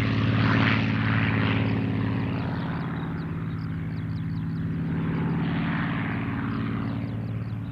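Piston engine of a WWII propeller fighter in flight, a steady engine note with propeller rush that peaks about half a second in and then fades as the aircraft moves away.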